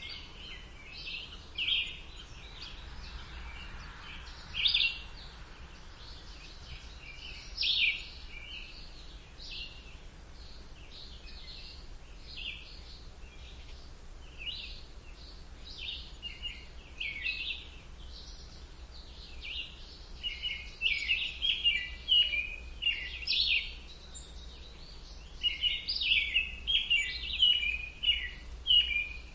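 Several songbirds chirping and trilling in woodland, short high calls throughout that grow busier in the last third, over a faint low steady rumble.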